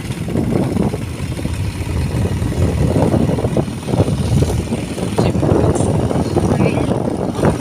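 Motorcycle running while under way, with wind buffeting the microphone in a steady, loud rumble.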